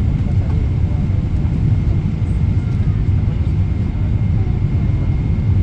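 Steady low rumble inside the cabin of a Boeing 777-300ER on final approach: its GE90-115B engines and the airflow, with a faint steady high tone over it.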